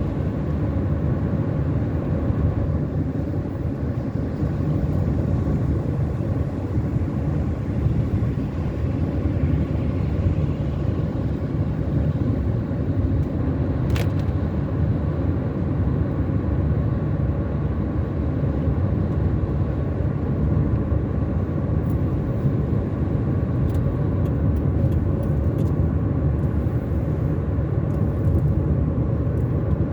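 Car cruising on a highway: steady tyre and engine rumble, with one brief click about halfway through.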